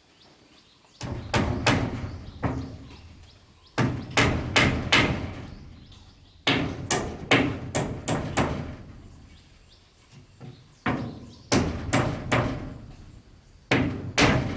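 Hand tool striking wood in quick runs of three to five sharp blows, with short pauses between the runs; four runs, and a fifth begins near the end.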